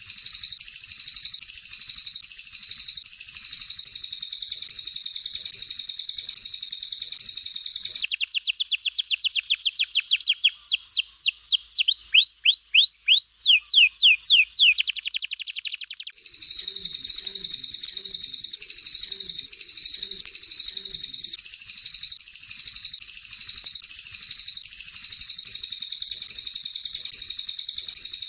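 Canary and cililin birdsong: a dense, fast, continuous song, broken about eight seconds in by some eight seconds of rapid whistled notes that each sweep downward in pitch, after which the dense song resumes.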